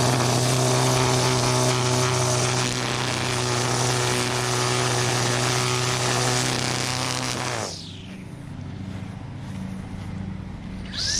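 Battery-powered string trimmer running at full speed, cutting grass with a steady whine. The trigger is let off about two-thirds of the way through, so the motor winds down and goes quieter, then it spins back up with a rising whine near the end.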